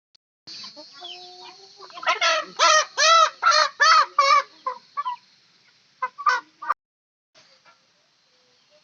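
A chicken squawking in a rapid run of loud, arched calls, then a few more calls that cut off suddenly.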